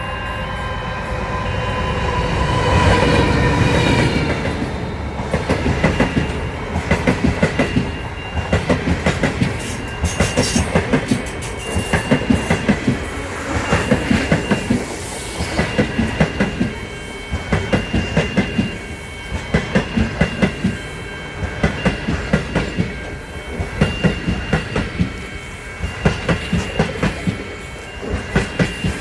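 A train passing close by, its wheels clattering over the rail joints in regular clusters about once a second. A steady pitched sound fades out over the first few seconds as the clattering takes over.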